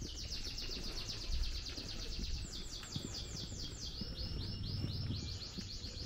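A bird chirping in a rapid, unbroken run of repeated down-slurred high notes, several a second. The pace slows and the notes change pitch a couple of times before it speeds up again.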